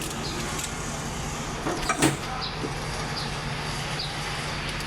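A steady low machine hum, with one metal clank about two seconds in and faint high chirps recurring at intervals.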